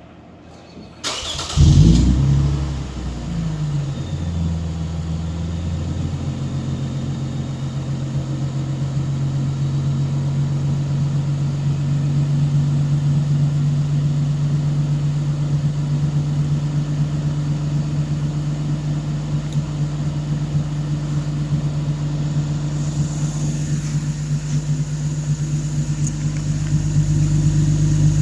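The 2.5-litre V6 of a 2008 Lexus IS250 AWD with its mufflers cut off, started up: a brief crank about a second in, a loud flare of revs, then settling into a steady idle.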